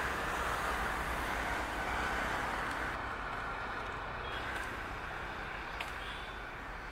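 Indian Railways WAP-4 electric locomotive and its passenger coaches approaching on the track: a steady rushing noise over a low rumble, easing off a little, with a faint click near the end.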